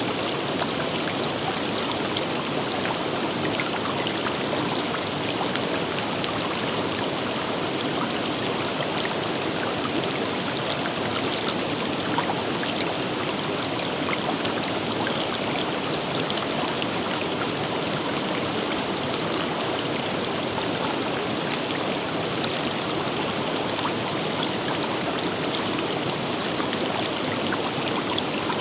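A forest river flowing over rocks: a steady rush and babble of water with fine splashes and drips throughout.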